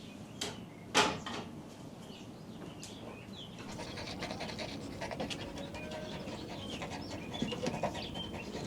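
A dog panting, with a sharp knock about a second in and faint bird chirps.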